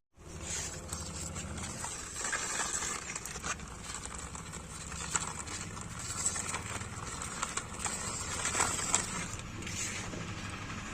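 A toy car running, with a steady low motor hum and a clatter of quick small clicks and rattles.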